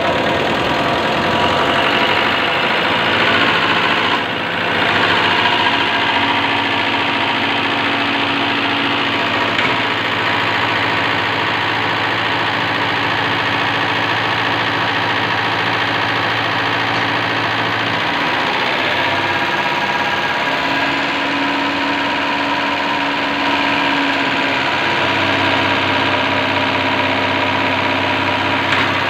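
Machinery running steadily, an engine-like mechanical hum. About two-thirds of the way through its tone shifts, as the running speed changes.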